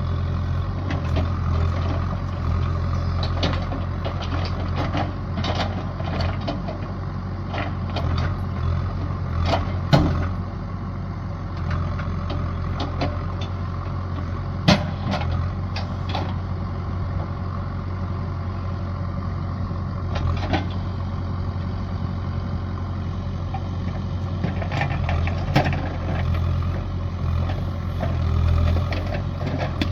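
A large engine running steadily, with sharp knocks and clanks scattered through it, loudest around the first ten to sixteen seconds.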